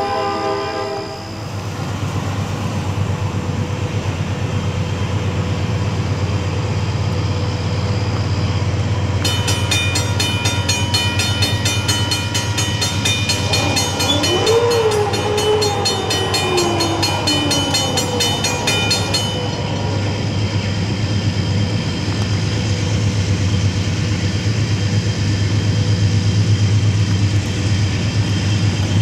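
A diesel locomotive's chime air horn, several notes sounding together, cuts off about a second in. Under it the steady low rumble of GE diesel locomotives working hard up-grade with a loaded train grows slowly as it nears, while a grade-crossing warning bell rings rapidly for about ten seconds in the middle.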